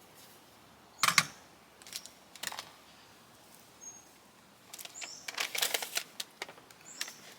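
A sharp click about a second in and a couple of lighter knocks, then plastic food packaging crinkling and rustling as it is handled and opened.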